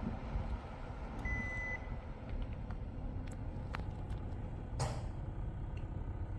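Panasonic CS-YN18TKP split air conditioner indoor unit giving a single short beep, as when it takes a remote-control command, over a steady low rumble. A few light clicks and a brief rustling burst follow.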